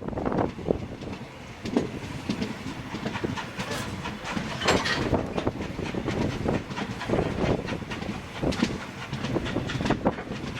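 A train of wagons hauled by a South African Railways Class 24 steam locomotive rolling along, with a steady low rumble and irregular knocks and clanks from the wheels and wagons.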